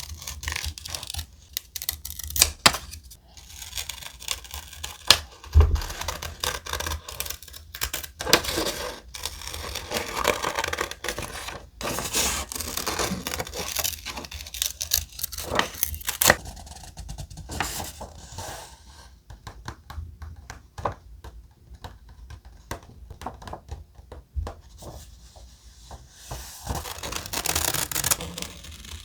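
Close-up handling of thick paper and stickers for scrapbooking: irregular rustling, scraping and tearing of paper with many small sharp taps and clicks, easing off for a while about two-thirds through.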